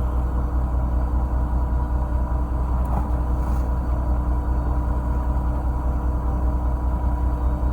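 Fishing boat's engine running steadily with a deep, even rumble and a faint steady hum.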